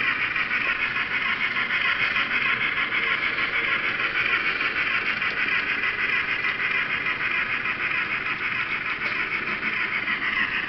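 N scale model train running on the layout track: a steady, high-pitched whir and rattle of the small motor, gearing and wheels on the rails.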